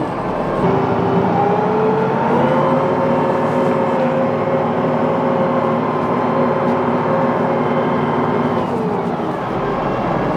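TYM T754 tractor's diesel engine running, its pitch rising about half a second in and again a couple of seconds in, holding steady, then dropping near the end.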